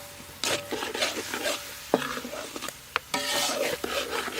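Fried rice being stir-fried in a hot pan: a spatula scraping through the food as it sizzles, with a few sharp metallic knocks against the pan that ring briefly, about half a second, two seconds and three seconds in.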